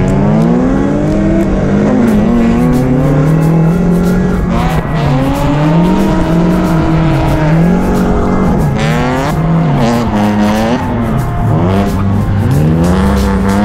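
Turbocharged SR20DET four-cylinder of a Nissan 240SX (S14), heard from inside the cabin, revving up and dropping back again and again as the car is drifted, with tyres squealing at times.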